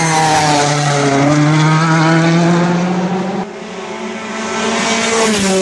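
Rally car engine held at high revs as the car drives past, a strong steady note with higher overtones gliding slowly. About three and a half seconds in the sound drops off suddenly, and an engine note builds up again near the end.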